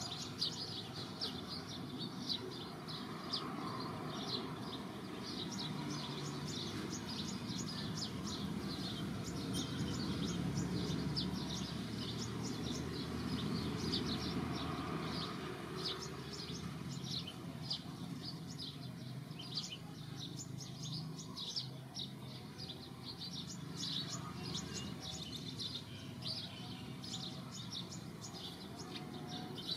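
Small birds chirping in quick, short notes, several a second, over a steady low background noise.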